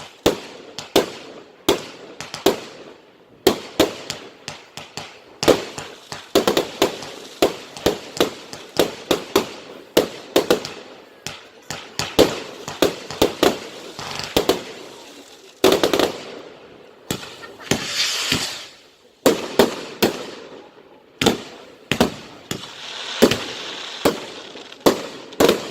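Firework display going off: a quick, irregular run of sharp bangs, several a second, with spells of crackle in between.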